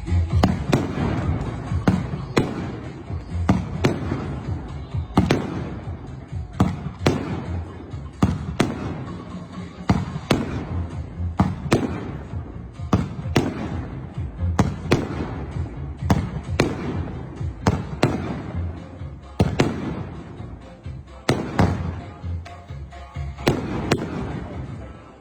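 Multi-shot fireworks cake firing a long, rapid series of shots: sharp bangs, one about every half second to second, each followed by a short rumbling tail.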